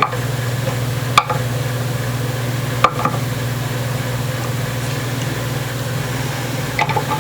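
A steady low hum with a handful of sharp clicks and taps: one at the start, one about a second in, one near three seconds and a quick cluster near the end.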